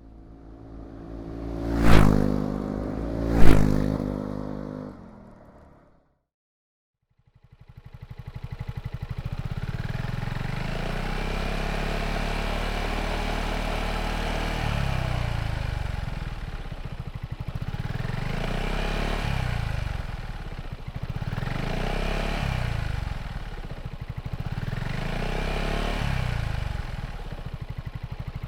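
Two loud intro hits with ringing, then a short silence. A Yamaha XMAX scooter's single-cylinder engine with a Yoshimura Cyclone slip-on exhaust starts and idles, rises in revs, then gives three throttle blips a few seconds apart near the end.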